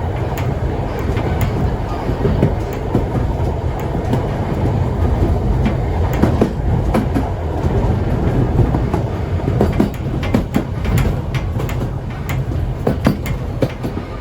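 Vintage steam train in motion: a steady rumble of the carriages on the track, with the wheels clicking and clacking over the rails, the clacks coming more often in the second half.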